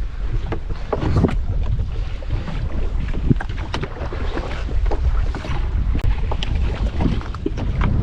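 A small fishing boat at sea, with wind buffeting the microphone over a steady low rumble and scattered short knocks and clatter on board.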